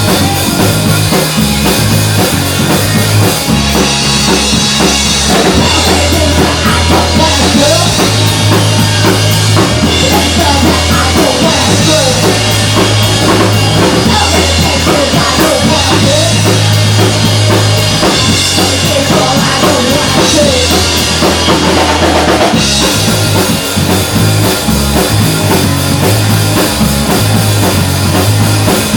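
Rock band playing a song: a drum kit with kick and snare over a bass line. The song gets fuller and brighter a few seconds in and drops back to a sparser groove after about 22 seconds.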